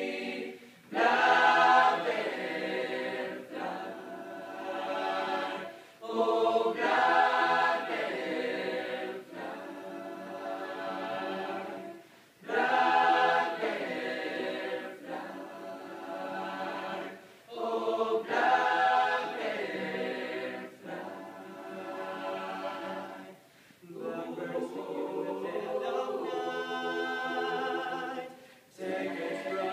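Choir singing a cappella, in sung phrases a few seconds long with short breaths between them.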